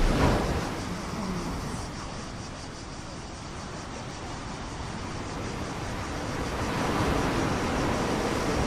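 Sea waves washing with wind buffeting the microphone: a steady rushing that eases off a few seconds in and swells again toward the end.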